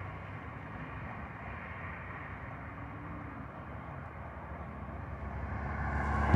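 Low, steady rumble of a car on the move, heard from inside, swelling near the end.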